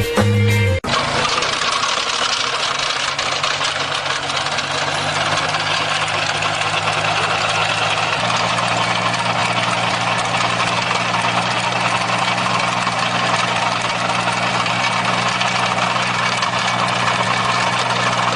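An engine running steadily, with a constant low hum and a dense mechanical rattle over it; its low tone steps slightly about eight seconds in. A moment of music ends just before it starts.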